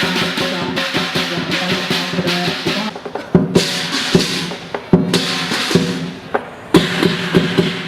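Chinese lion-dance percussion played live: a drum beaten in a fast, dense roll with cymbals ringing over it. About three seconds in, the roll breaks into single heavy accented strikes with short gaps between them.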